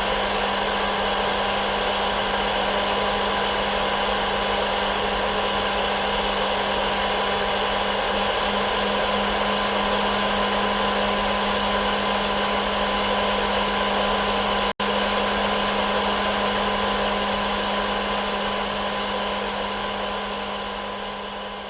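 Hair dryer running steadily: a constant rushing blow with a steady low hum underneath. It cuts out for a split second about fifteen seconds in, then begins to fade out near the end.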